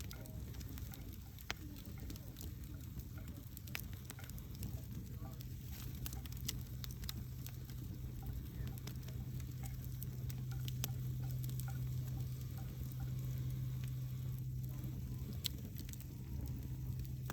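Wood fire in a fireplace crackling, with irregular sharp pops and snaps over a steady hiss. A low steady hum underneath grows louder about halfway through.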